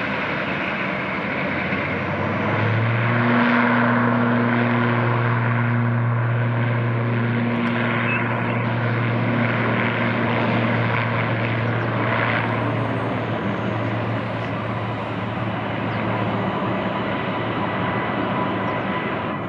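ATR 72-600 turboprop at takeoff power: a steady propeller drone over engine noise that sets in a few seconds in, is loudest soon after, and fades away near the end.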